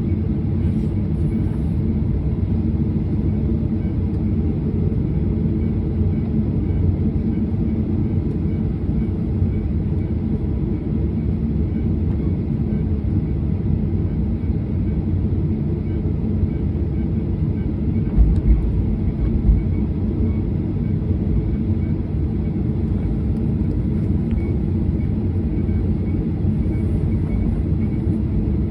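Steady low rumble of a jet airliner's engines and airflow heard inside the passenger cabin, with a couple of short low thumps about two-thirds of the way through.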